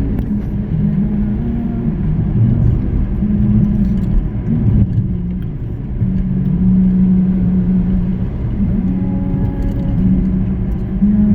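A vehicle's engine running while driving, over a low, continuous road rumble. Its pitch shifts up and down every few seconds as the speed changes.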